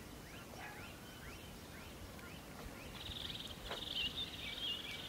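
Birds chirping: a run of short, rising chirps, then from about three seconds in a high, buzzy trill with warbling notes over it. A faint knock comes near the middle.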